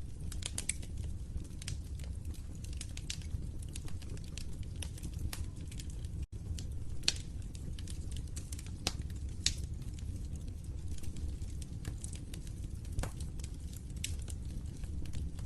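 Wood fire in a fireplace crackling, with irregular sharp pops over a steady low rumble of the flames. The sound cuts out for an instant about six seconds in.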